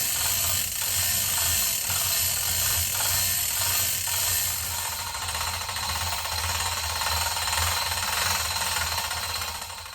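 Electric arc welding: a steady, loud crackle and sizzle of the arc with a low hum underneath, running continuously and stopping abruptly near the end as the arc is broken.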